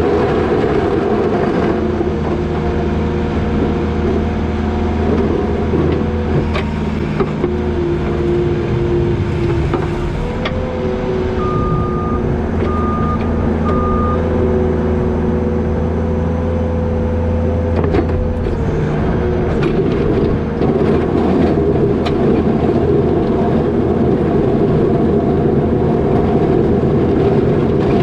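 New Holland L220 skid steer's diesel engine running steadily under load as it plows wet snow, its pitch shifting a couple of times. Near the middle its backup alarm gives three short beeps about a second apart, and a few sharp knocks come through.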